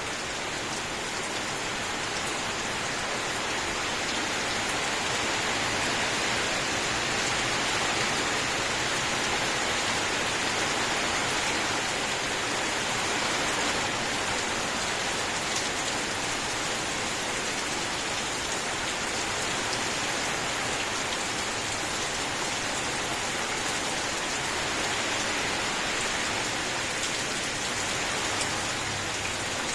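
Steady rain falling, an even hiss of many drops that does not let up.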